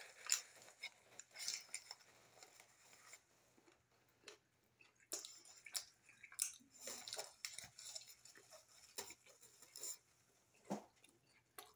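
Quiet chewing of a bite of grilled chicken bacon ranch flatbread, with faint wet mouth clicks and light rustling scattered throughout.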